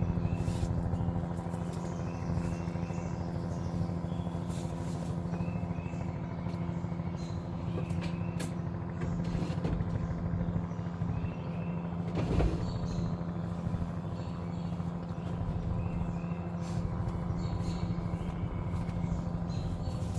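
News helicopter hovering: a steady rapid rotor chop over a constant engine hum.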